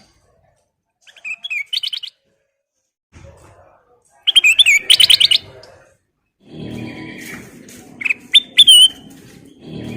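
Kutilang emas bulbul singing: short bursts of rapid, sweeping whistled chirps, loudest about halfway through, then a few clear whistled notes near the end. A low rumble runs underneath during the last few seconds.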